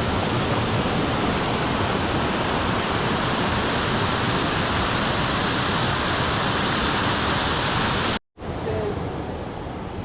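Waterfall rushing: a steady, loud roar of falling water that cuts off abruptly about eight seconds in and gives way to a quieter rush.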